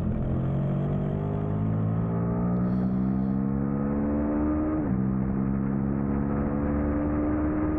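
2003 Suzuki SV650's 645 cc V-twin engine accelerating at race pace, its pitch climbing steadily, then dropping sharply at an upshift about five seconds in before climbing again.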